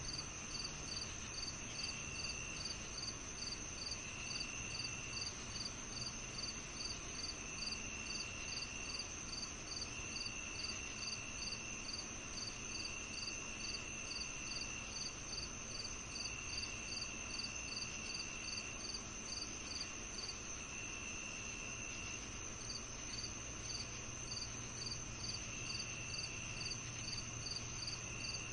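Summer evening insect chorus: crickets chirping in an even, steady rhythm over a continuous high-pitched ringing trill. A lower buzzing trill from another insect comes and goes in stretches of a second or two.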